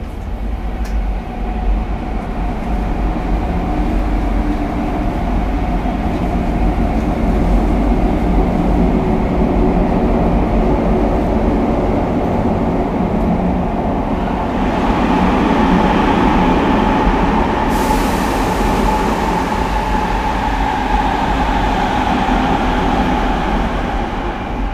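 Sotetsu 8000 series electric train with Hitachi IGBT-VVVF traction, running on the line and heard from inside the car: a steady rumble of wheels on rail and motors with a constant hum, growing louder. About two-thirds of the way in a hiss comes up, then a sharper high hiss.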